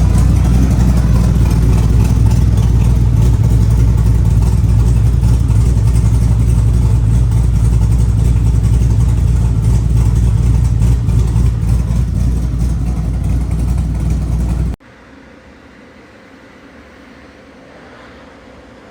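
Cammed 5.3 L LS V8 idling loudly through an X-pipe muffler with no other mufflers, open and raspy. About 15 seconds in it cuts off suddenly, leaving only a faint steady hiss.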